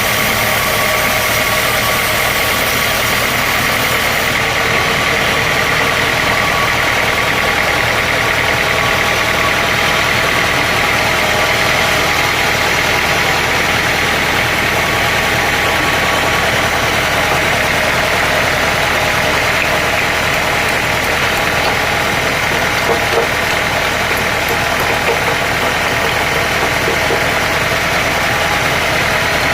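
Sawmill machinery running steadily: a continuous mechanical drone with a steady high whine over it.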